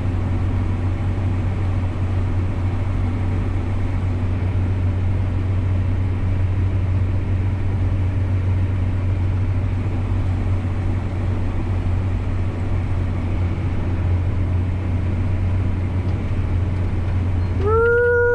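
Farm tractor engine running steadily under load, heard from inside the cab as a low drone. Near the end a loud single-pitched tone starts, rises briefly and then holds.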